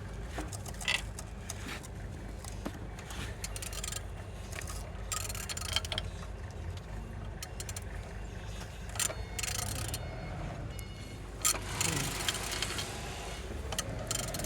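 A used engine being turned over by hand, with irregular metallic scraping, clicking and clinking from the tool working the crankshaft over a steady low background rumble. The engine turns freely.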